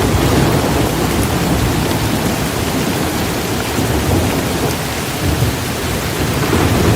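Heavy, steady downpour of rain with a low rolling thunder rumble beneath it that swells and eases.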